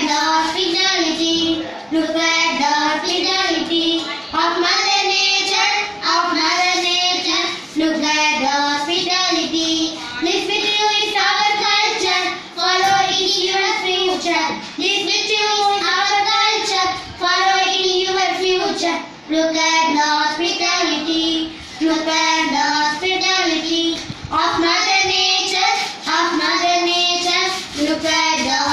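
A child singing a school poem in English, one high voice with no accompaniment, in short phrases with brief breaths between them.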